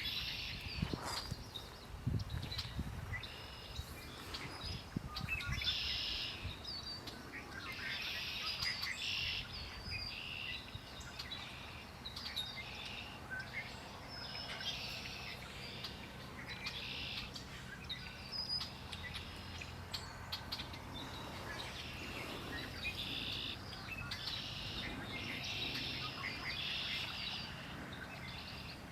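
Songbirds singing, short bright song phrases repeating every second or two, over a faint steady low hum.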